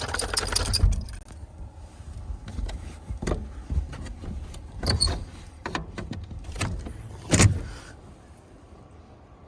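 Close handling noise: rustling and scuffing, then a string of clicks and knocks, the loudest about seven and a half seconds in, before it settles to a low hum.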